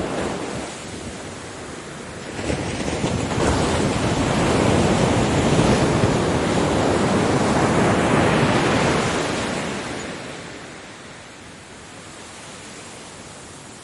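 Ocean waves on a beach: the wash of one wave dies away at the start, then a new wave builds from about two seconds in, breaks and surges loudest through the middle, and fades to a soft hiss of receding surf near the end.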